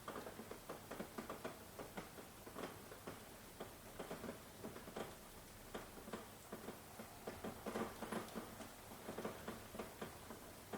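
Rain falling, heard as many separate, irregular drops pattering close by over a faint steady hiss. No thunder.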